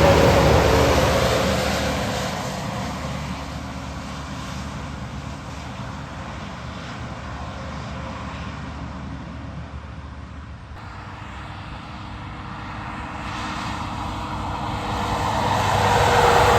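Heavy trucks passing on a wet highway: one goes by at the start and fades away, and the next approaches and goes by near the end, its engine note dropping in pitch as it passes, with tyres hissing on the wet road.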